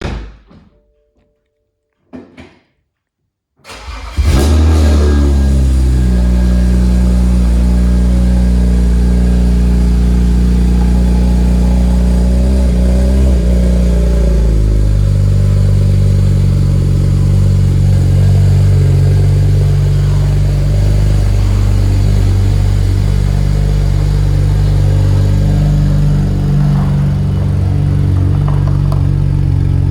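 2009 BMW 135i's twin-turbo inline-six (N54), tuned with full bolt-ons, cold-started: a couple of short clicks, then it fires about four seconds in and runs at a raised cold-start idle. About fourteen seconds in the idle steps down to a lower, steady idle.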